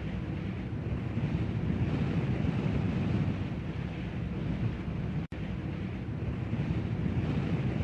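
Strong storm wind blowing in a dense, steady rush, heaviest in the low range. It cuts out for an instant about five seconds in.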